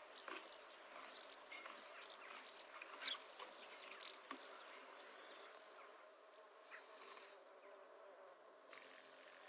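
Faint ambient soundscape: a low steady hum with scattered crackles and ticks, then two short bursts of hiss in the second half.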